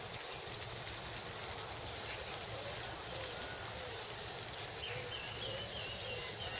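Steady hiss with faint, scattered bird calls, a clearer warbling call about five seconds in.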